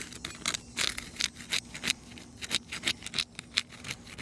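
Asphalt shingles being pried loose from their seal strips, giving an irregular series of sharp crackles and snaps, several a second. The shingles are super brittle, their fiberglass breaking and shedding granules as they are worked.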